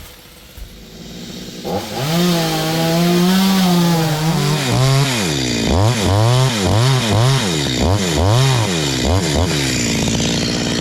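Stihl chainsaw engine running. From about two seconds in it holds a steady note, then revs up and down several times in quick succession, and settles back to a steady lower run near the end.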